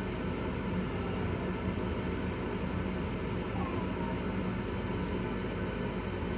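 Old Bryant gas furnace running with its newly replaced draft inducer motor, a steady, even hum.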